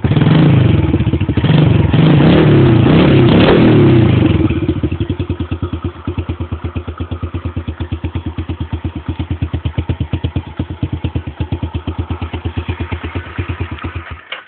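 Dirt bike engine, just started, revved for the first four seconds or so, then settling to an idle with a steady rapid pulsing; it is shut off just before the end.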